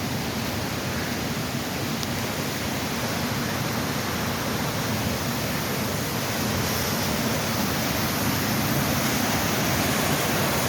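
Waterfall rushing, a steady, even roar of falling water that swells slightly toward the end.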